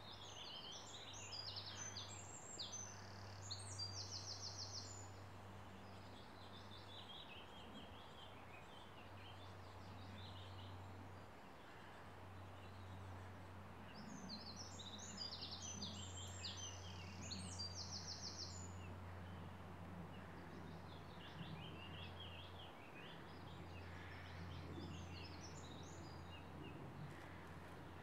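Songbirds singing: two bright song phrases, one about a second in and one around halfway, each ending in a fast trill, with softer scattered bird notes between them. A steady low hum sits underneath.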